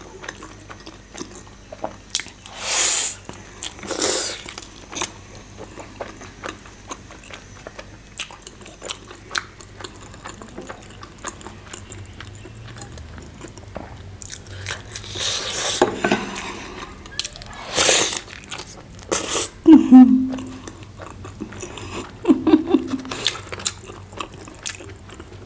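Close-miked eating: a person chewing and biting food, with several loud, wet, slurping mouthfuls spread through and a couple of short low hums near the end.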